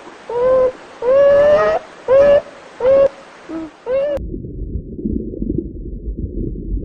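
Domestic fowl giving a quick run of about six short, clear calls, each held at a steady pitch. About four seconds in it cuts to a low, muffled rumbling noise.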